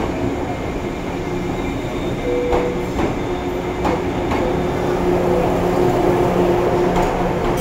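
JR 185 series electric multiple unit rolling slowly into the platform as it arrives, with a steady hum and the wheels clacking now and then over rail joints. A short squeak comes about two and a half seconds in.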